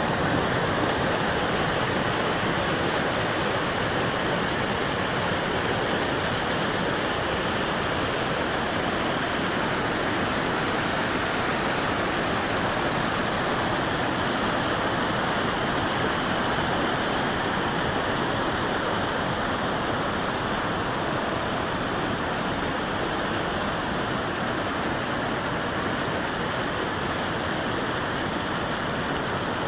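Rushing water, a steady unbroken noise of fast-flowing water.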